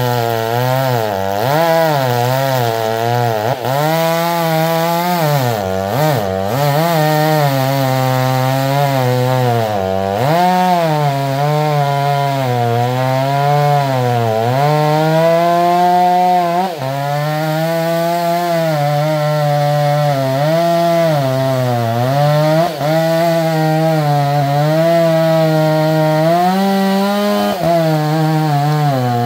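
Two-stroke chainsaw running at high speed and cutting wood. Its pitch sags and recovers again and again as the cut loads the engine, with a few deeper dips.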